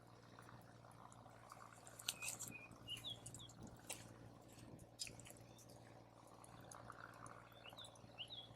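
Faint crackling of a wood campfire with a few sharp pops, while a small bird calls in short chirps about two seconds in and again near the end.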